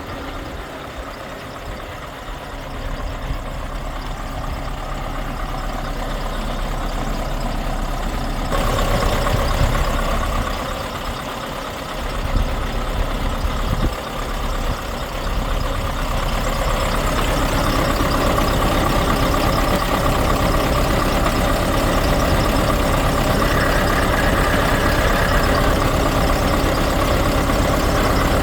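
The V8 diesel engine of a Scania R520 truck running steadily. It gets louder and brighter about eight seconds in and again a little past the middle.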